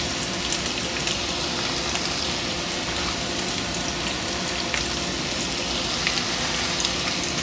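Breaded catfish pieces frying in hot grease in a skillet: a steady sizzle with scattered crackles and pops.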